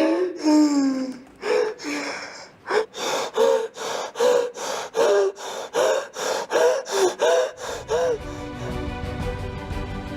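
A woman's high-pitched, repeated excited cries and gasps, short rising-and-falling calls about two a second, then music comes in near the end.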